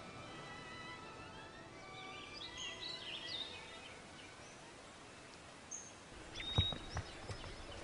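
Quiet outdoor ambience: birds chirp a few short calls about two to three seconds in over a faint steady hiss, and a few knocks sound near the end.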